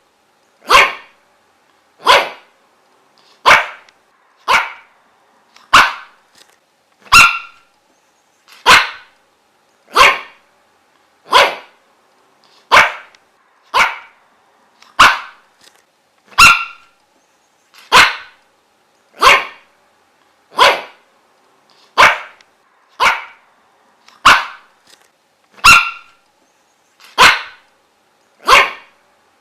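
A dog barking single short barks over and over at a steady, even pace, a little over a second apart.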